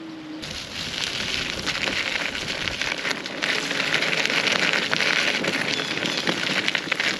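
Steady rain pattering on a surface, a dense hiss full of small taps. It comes in abruptly about half a second in, cutting off a steady tone.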